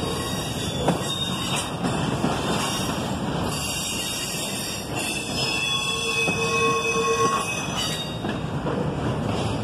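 Double-stack intermodal freight cars rolling past close by: a steady rumble and rattle of steel wheels on rail, with high-pitched wheel squeals rising over it through the middle of the pass.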